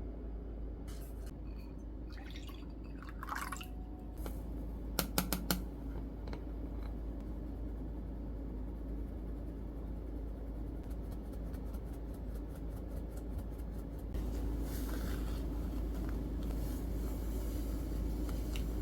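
Kitchen food-preparation sounds: utensils and dishes being handled, with a few sharp clinks about five seconds in and a run of rapid light ticks a few seconds later, then a steady hiss toward the end.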